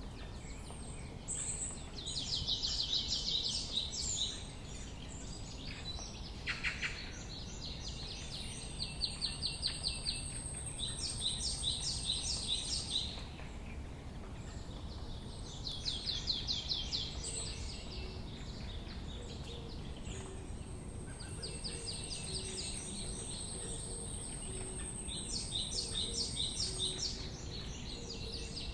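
Wild songbirds singing in the open: repeated phrases of fast, high trilled notes every few seconds. Twice a thin, very high steady note is held for several seconds. Steady low background noise runs underneath.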